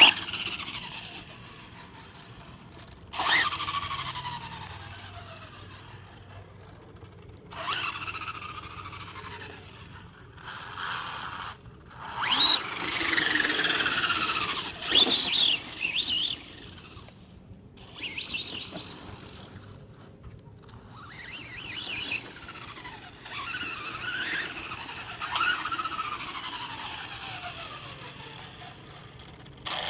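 Electric remote-control truck being driven in bursts: each time the throttle is pressed, a high motor-and-gear whine starts suddenly and then falls in pitch as the truck slows, several times over.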